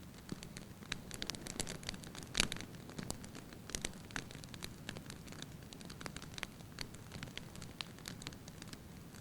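Wood fire crackling: irregular sharp pops and snaps over a steady low hiss, with one louder pop about two and a half seconds in.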